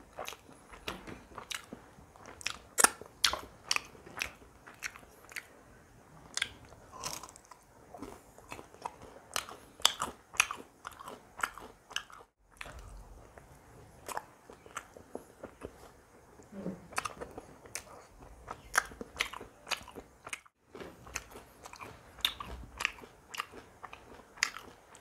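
Close-miked chewing and biting of fried chilli chicken: irregular sharp mouth clicks, smacks and crunches.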